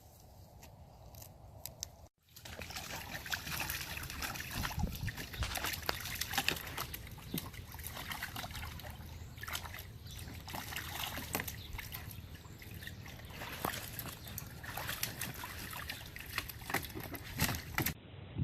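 Water sloshing and trickling, with many small irregular splashes, starting about two seconds in.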